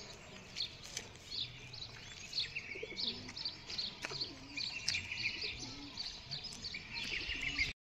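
Birds chirping, many quick high chirps following one another and overlapping; the sound cuts off suddenly near the end.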